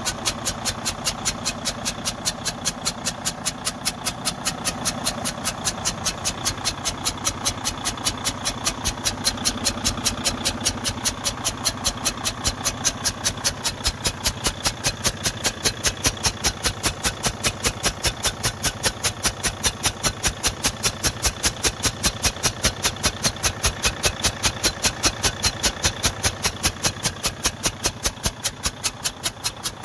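Detroit DD15 diesel engine idling, with a sharp, evenly spaced puff several times a second: the sign of a compression leak past a damaged intake valve.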